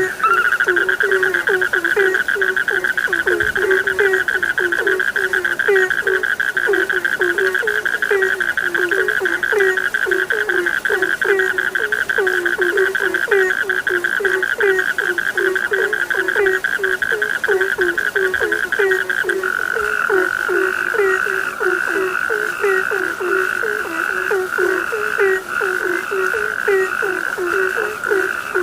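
Chorus of frogs: many short, low croaks repeating several times a second under a continuous high trill. The trill turns into separate pulses about two-thirds of the way through.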